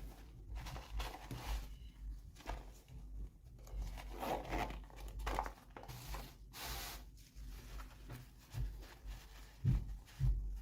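Packaging being torn open and rustled by hand, in irregular tearing and crinkling strokes, with one longer tear a little past the middle and a few soft knocks near the end.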